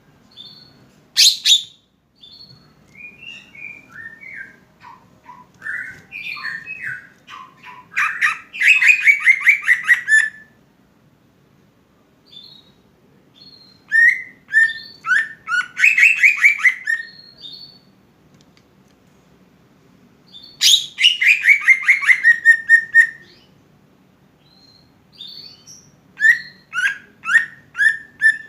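Green leafbird (cucak ijo) singing in phrases a few seconds apart: varied short chirps leading into fast runs of repeated notes that fall in pitch.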